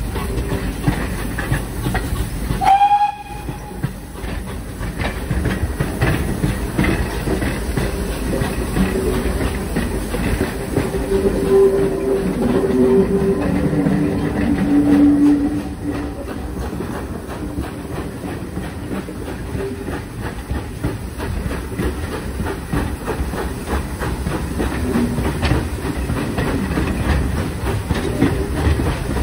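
Steam train, hauled by a pannier tank locomotive, running along the line with its wheels clicking over the rail joints. A short whistle note sounds about three seconds in.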